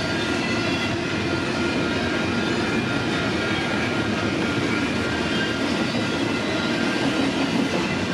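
Freight cars of CPKC train 113 rolling past at speed: a steady rumble of steel wheels on the rails, with thin high-pitched tones running through it.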